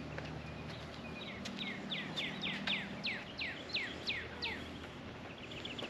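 A bird singing a run of about ten sharply falling whistled notes, roughly three a second, with a quick high chatter near the end. Under it runs a low steady hum that fades out about halfway through.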